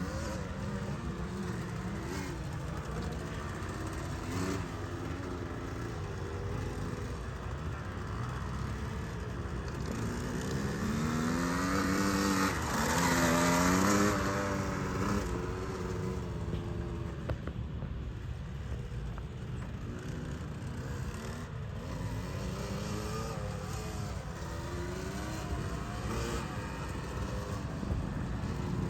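Dirt bike engine running, its pitch rising and falling as it revs up and backs off. It is loudest as it passes close, about twelve to fourteen seconds in.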